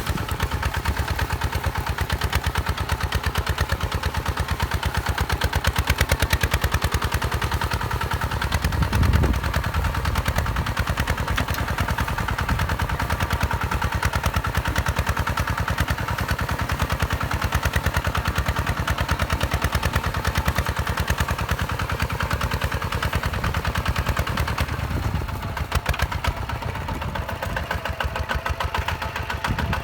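Hinota HG Gold 155 DI single-cylinder diesel engine running with a rapid, even chugging beat, swelling briefly about nine seconds in.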